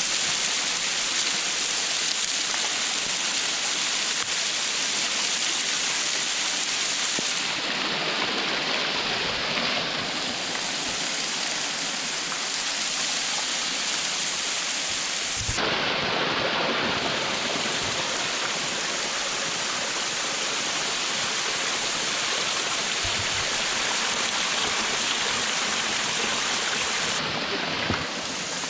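Steady rushing roar of a waterfall, water falling and splashing without a break.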